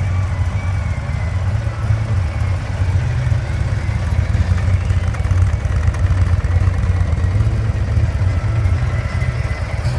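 Harley-Davidson Ultra Limited's V-twin engine running steadily at a constant, low engine speed.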